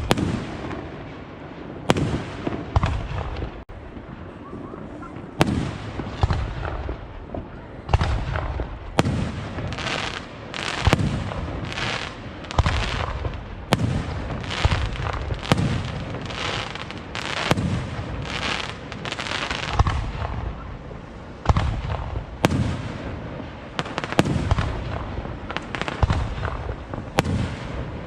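Professional aerial fireworks display: a steady series of sharp shell bursts about every one to two seconds, some followed by a short crackle, coming thicker in the middle.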